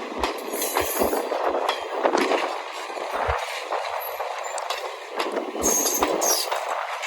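A train going by: a steady rail rumble with many sharp clicks and clanks and short low thumps through it.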